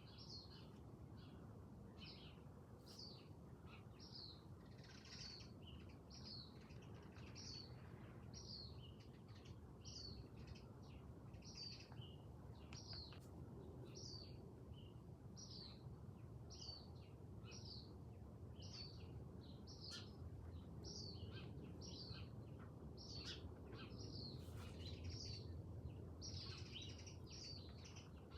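Faint, steady chirping of a small songbird: one short, high chirp repeated about three times every two seconds, over a low background rumble.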